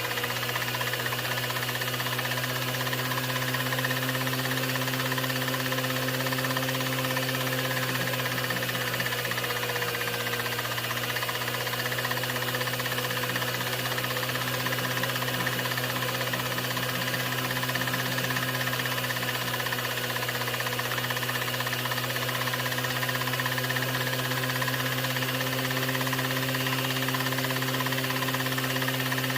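16mm film projector running steadily: a constant mechanical hum with hiss and a faint rapid clatter underneath.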